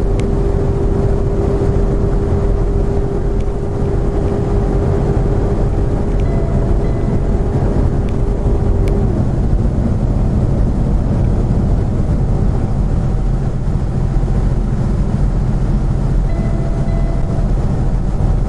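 Vehicle cabin noise while driving down a steep mountain grade: a steady low road and engine rumble, with a steady whine that stops about halfway through.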